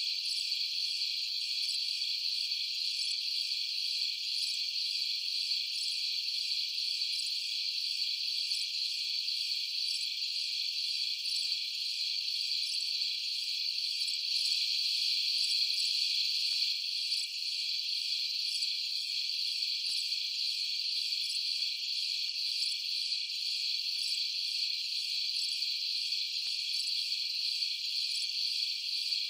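Night-time chorus of crickets and other insects, a continuous high-pitched chirping that holds steady throughout.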